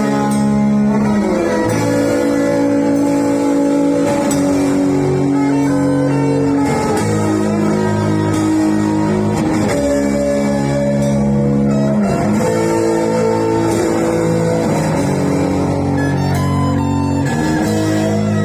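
Instrumental music led by guitar, playing held chords that change every two to three seconds, with no singing.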